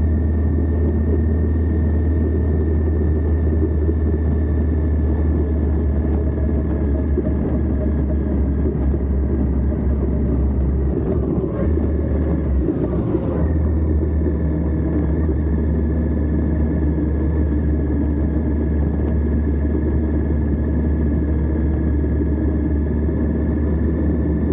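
Indian Scout's V-twin engine running steadily at road speed, with deep wind and road rumble, heard from a camera mounted low on the crash bar. The low drone eases briefly around the middle, then returns.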